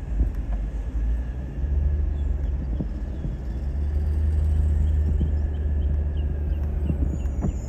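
Garbage truck's diesel engine running with a low rumble, which swells louder for a few seconds in the middle.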